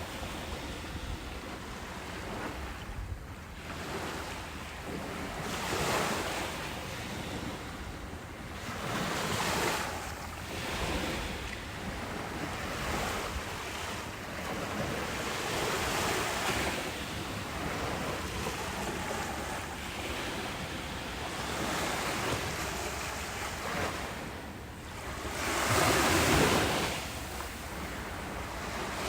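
Ocean waves breaking and washing on a beach, the surf swelling and easing every few seconds, with the biggest wave breaking near the end. Wind buffets the microphone.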